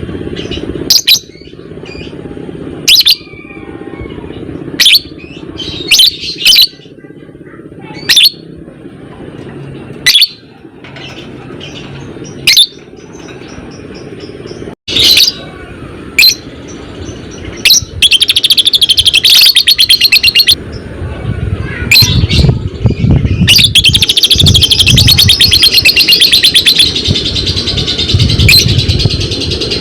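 Lovebird calling: sharp, shrill single calls about every two seconds, then from about 18 seconds in a long, unbroken, rapid chattering trill, the lovebird's 'ngekek'.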